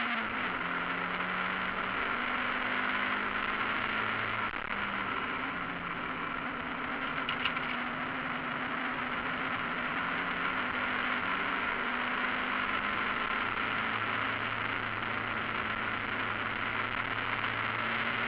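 MaX5 Mazda MX-5 race car's four-cylinder engine running hard on track, heard from inside the cockpit with wind and road noise, its revs dropping at a gear change near the start and then rising and falling through the corners.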